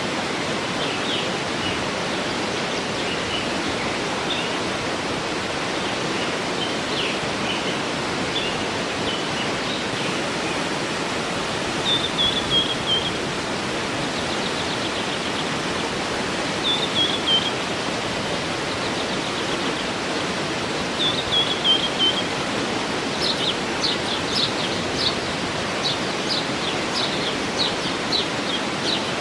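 Waterfall rushing steadily, with birds singing over it: scattered chirps, then a short falling phrase repeated three times a few seconds apart, and a run of sharp repeated notes near the end.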